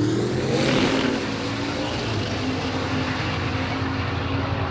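A vehicle engine running at a steady, even speed, with a low drone and small shifts in pitch.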